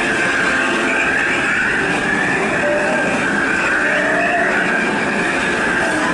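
Disneyland Railroad passenger train running along the track, heard from aboard: a steady, loud running noise with a high tone that wavers slowly up and down.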